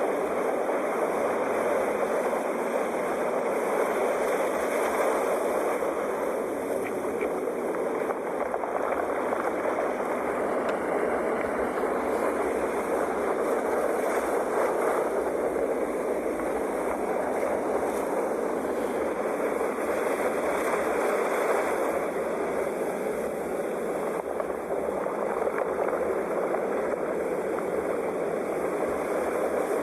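Sea waves washing on a shore: a steady rushing wash that swells and eases every several seconds.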